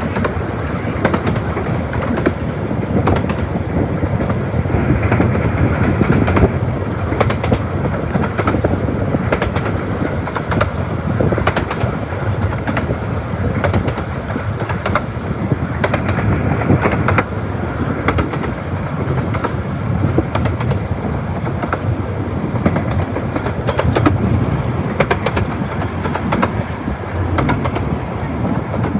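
A 15-inch gauge miniature railway train running along the line: a steady rumble of wheels on rail with irregular sharp clicks as the wheels pass over rail joints.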